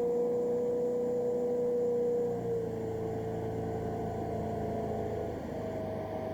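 Motorboat engine running steadily with a sustained whine, which drops slightly in pitch about two and a half seconds in.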